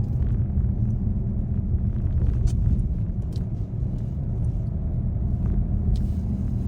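Car driving, heard from the dashcam: a steady low rumble of engine and road noise, with a few short clicks.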